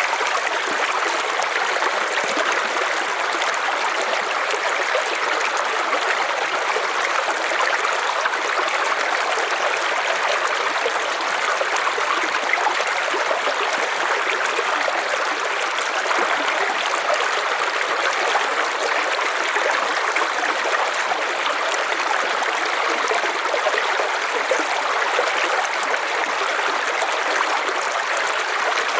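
River water flowing steadily over stones, an even rushing with a light trickle.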